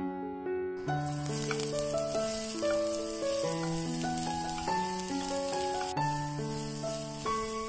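Chopped onions frying in hot oil in a wok, a steady sizzle starting about a second in. Soft piano background music plays throughout.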